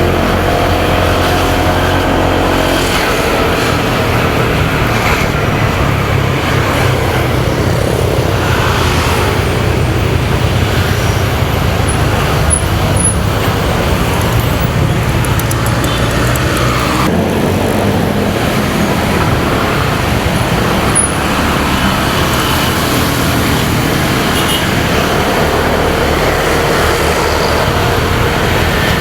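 Motorcycle engine running under way, with wind noise and surrounding road traffic. Its note is steady, with a shift in the low hum about two thirds of the way through.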